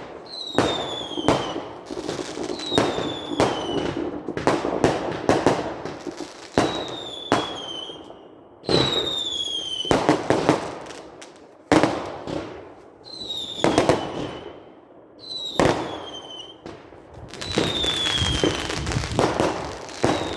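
Fireworks going off in a fast series of sharp bangs with crackling between them, and about eight short whistles that fall in pitch scattered through.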